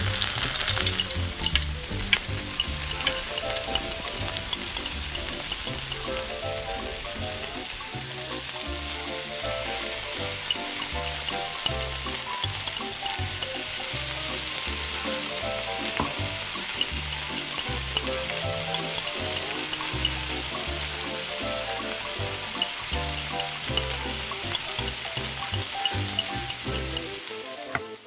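Hot oil sizzling steadily in a miniature frying pan as sliced onion and garlic, then an egg topped with cheese, fry in it. The sizzle stops abruptly near the end.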